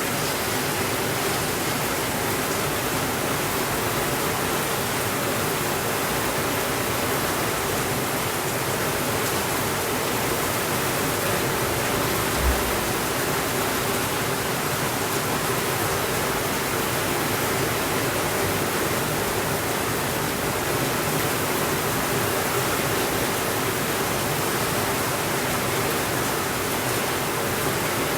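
Steady rainfall: an even, unbroken hiss with no thunder. A single short low thump sounds about halfway through.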